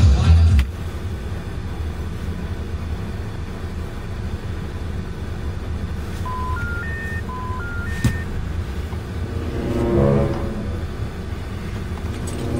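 Car engine running, a steady low rumble in the cabin, louder for the first half-second and then dropping. About six seconds in, a phone plays three rising beeps twice in a row, matching the telephone network's special information tone that signals a call cannot be completed.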